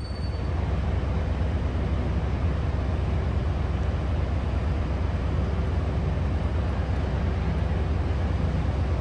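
Train at a station platform rumbling steadily, a deep continuous rumble that swells as it begins and then holds level.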